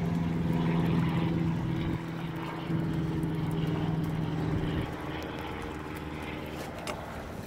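A steady engine drone, loudest in the first part and fading after about five seconds, like a propeller aircraft passing.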